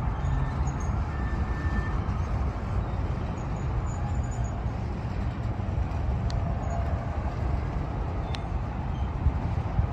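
Union Pacific diesel locomotives running under power with a train on the move, a steady low rumble.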